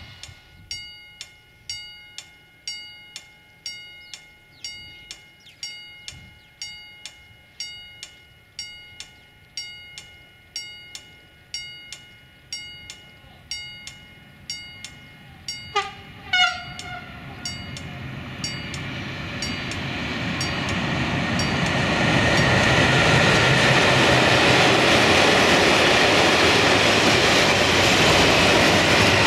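A warning bell rings in even strokes, about two a second. About halfway through, a locomotive horn gives two short blasts that fall in pitch. An electric-hauled freight train of grain hopper wagons then rolls past, its noise swelling until it is the loudest sound.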